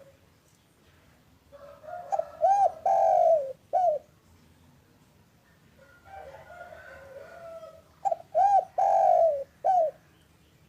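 Spotted dove (derkuku) cooing: two song phrases, each a soft lead-in followed by short arched coos, one longer coo and a short final note.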